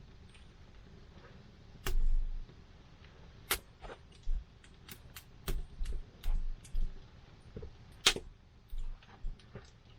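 Wood campfire crackling, with irregular sharp pops; two louder pops come about three and a half and eight seconds in. A low dull thump sounds about two seconds in.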